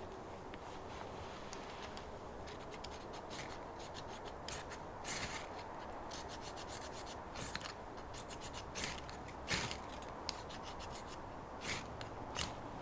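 A dozen or so short rasping strokes on wood at irregular intervals, firewood being worked by hand.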